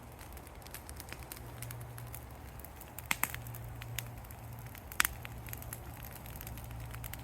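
Yard-debris bonfire crackling with scattered sharp pops, the loudest about three and five seconds in, over a low steady rumble. The fire has just caught and is burning hot enough to keep going.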